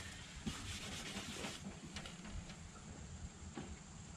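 A scouring pad scrubbing the aluminum of a boat's transom, a quiet steady rubbing and scratching.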